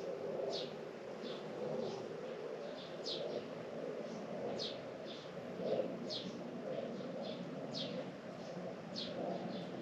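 A bird repeating a short, high chirp that slides downward, roughly once a second, over a steady low background noise.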